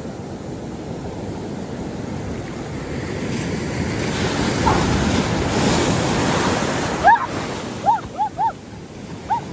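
Ocean surf: a wave's rush of water builds to a peak about halfway through, then falls away. Near the end come a few short, high-pitched cries.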